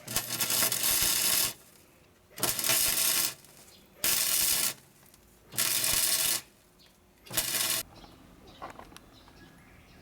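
MIG welder stitch-welding thin car-body sheet metal in five short bursts of crackling and hissing, each about a second long with short pauses between.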